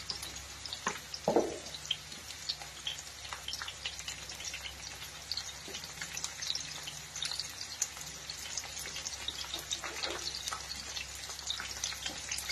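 Sliced green capsicum sizzling gently in hot oil in a wok, with scattered small crackles and pops. There is one louder short knock about a second in.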